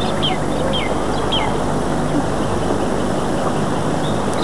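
Small birds chirping in short, downward-sliding notes during the first second and a half, over a steady hiss and low hum.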